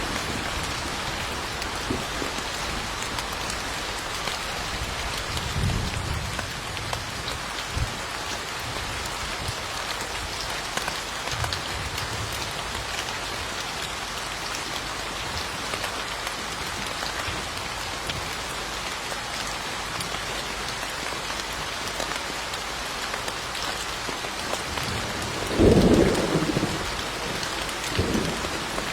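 Steady rain falling, with low rumbles of thunder: a soft one about six seconds in and a louder one near the end.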